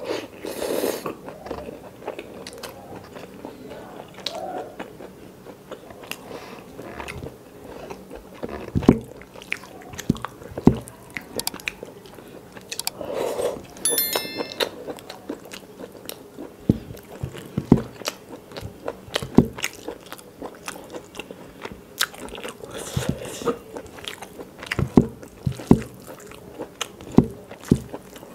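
Close-miked eating of chicken gizzard curry by hand: chewing and biting with many sharp mouth clicks and smacks, unevenly spaced.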